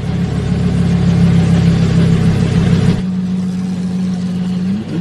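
Vehicle engine running with a steady hum, its pitch starting to rise near the end as it revs.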